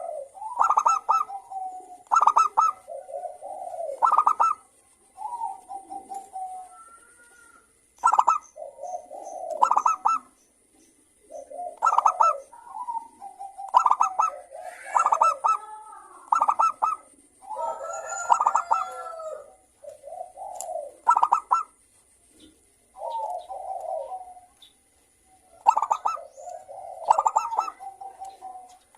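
Several zebra doves (perkutut) cooing and answering one another, with overlapping phrases of quick clipped notes and softer purring coos.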